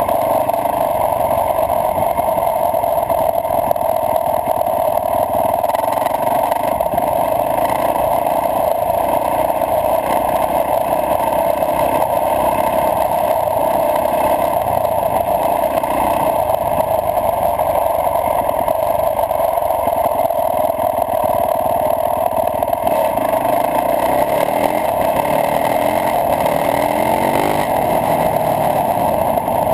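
Yamaha YZ450F dirt bike's four-stroke single-cylinder engine running while riding, under a steady rushing noise. Near the end the engine note rises a few times as the bike accelerates.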